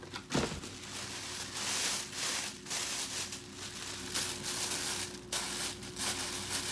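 Protective packaging around a handbag being pulled off and unwrapped, crinkling and rustling throughout. There is a brief low thump just after the start.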